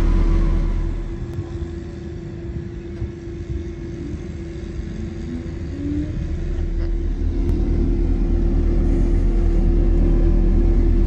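Engine of heavy road-paving machinery running with a steady low rumble and hum, dropping in level about a second in and building back up over several seconds.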